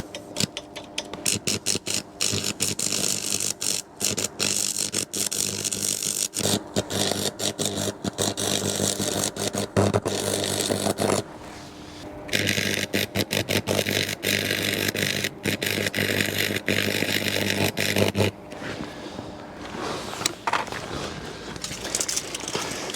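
Old electric arc welder welding steel sections: a steady crackling hiss over a mains hum. It comes in two runs split by a pause of about a second near the middle, and the arc cuts off sharply about two-thirds of the way through.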